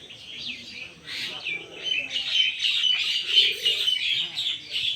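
A flock of small birds chirping and twittering over one another, growing busier and louder about two seconds in, with a couple of short low cooing calls underneath.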